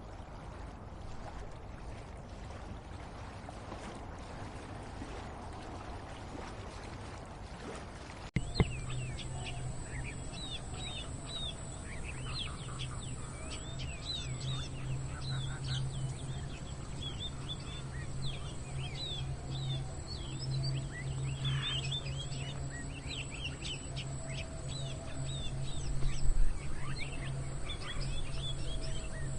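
Small songbirds chirping and twittering, many short overlapping calls, starting after a sudden cut about 8 seconds in; before the cut only a noisy outdoor hiss. A steady low hum runs under the birdsong.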